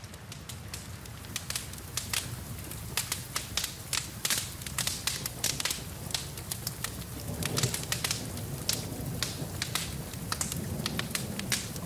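Wood fire in a fireplace crackling with frequent sharp pops, over a steady hiss of rain. The crackling grows denser after about a second, and a low rumble of flames swells up around the middle.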